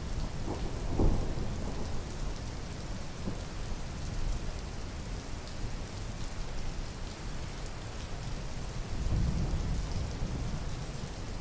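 Steady rain falling, with a brief low rumble of thunder near the end and a short thump about a second in.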